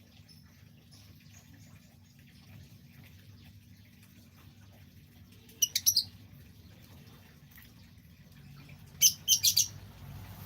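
A bird chirping in two quick bursts of about four sharp, high notes each: one a little past halfway through, the other near the end.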